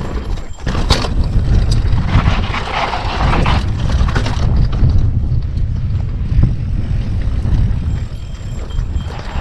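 A mountain bike riding a dirt trail: heavy wind rumble on the action camera's microphone, with knocks and rattles from the bike over rough ground and a rougher stretch of tyre hiss a couple of seconds in.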